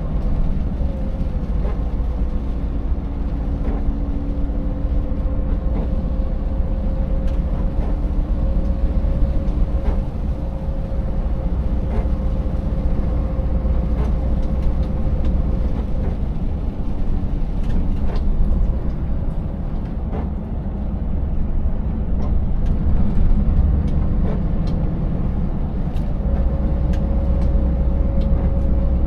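Scania 590S 16-litre V8 truck running steadily at road speed: a deep low drone with a faint steady hum on top, and frequent short knocks and rattles as the empty rig rides over broken road.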